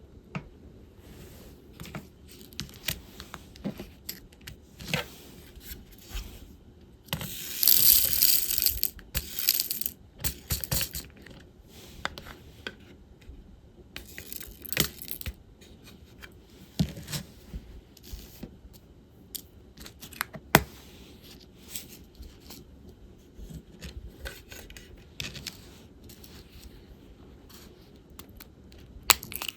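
Small clicks, taps and rattles of diamond painting work: plastic drills and the applicator pen clicking on the tray and canvas. A longer, louder rattle of drills being shaken in the tray comes around eight seconds in.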